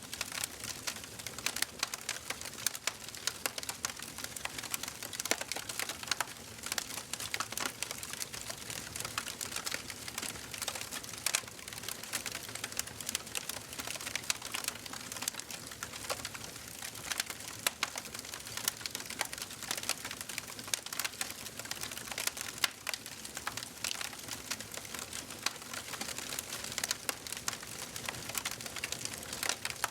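Wood fire burning in a fireplace, crackling steadily with many small sharp pops and snaps over a soft hiss.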